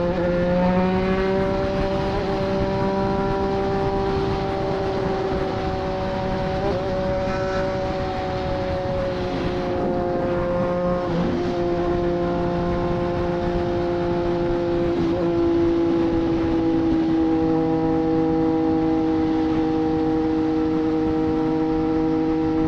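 Triumph Street Triple 765 RS's inline three-cylinder engine through a Racefit Growler full exhaust, cruising at a steady highway speed. Its note lifts slightly in the first second, then holds nearly steady and eases a little lower, with a few faint knocks along the way.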